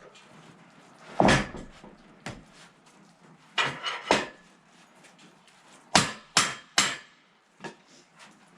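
Irregular hard wooden knocks and clunks, about ten in all, the loudest about a second in and two quick groups of three in the middle: sawn boards being handled and knocked against each other or the sawmill bed.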